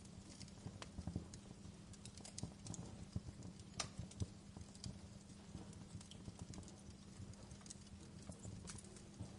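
Wood fire in a fireplace crackling, with irregular sharp pops and snaps, one louder pop about four seconds in, over a low steady hum.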